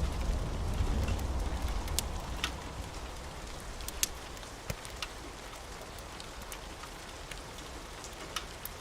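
Steady rain hiss with scattered sharp pops from a crackling wood fire. A low rumble of thunder dies away over the first few seconds.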